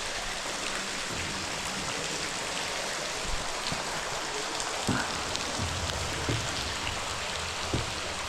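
Spring water pouring and dripping from cracks in a mine's rock ceiling into the flooded mine below: a steady hiss of falling water full of small drip splashes. Three soft knocks sound in the second half.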